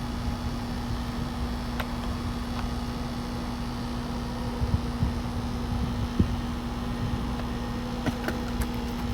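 A steady mechanical hum holding one constant low tone over an uneven low rumble, with a few faint clicks near the end.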